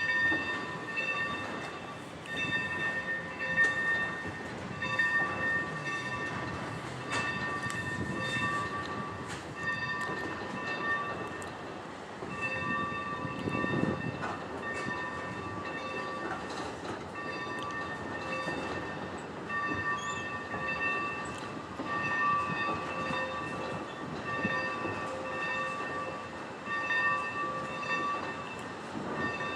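Train rolling on the rails, with scattered clicks and a ringing tone that comes and goes about once a second.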